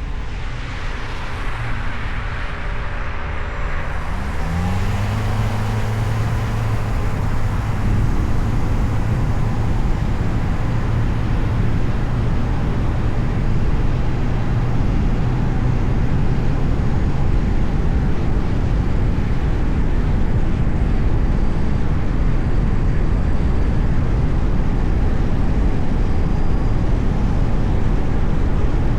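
Car driving through city traffic: a steady rush of road and tyre noise. It grows louder over the first several seconds as the car picks up speed, with a low engine hum for a stretch in the first half.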